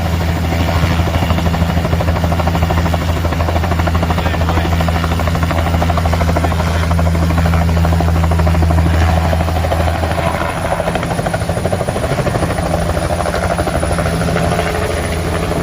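Bell 505 helicopter with its rotor chopping steadily at takeoff. The sound is loud and even, easing off slightly about ten seconds in.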